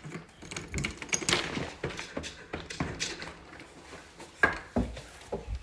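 Irregular clicks and knocks of indoor movement and handling, with one sharp knock about four and a half seconds in.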